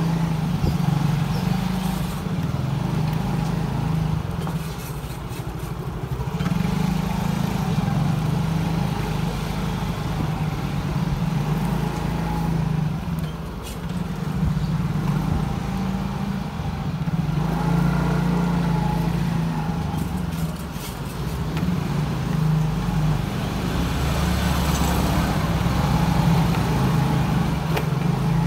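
Motorcycle engine running while riding along a street, its drone rising and falling as the throttle and speed change, with road and traffic noise around it.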